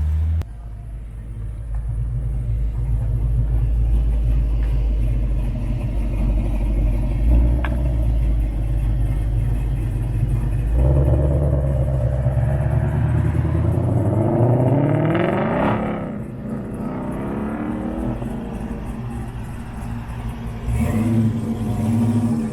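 Car engine running with a steady low note. About eleven seconds in it revs up and accelerates, its pitch climbing for several seconds, then it drops back to a lower, steadier note.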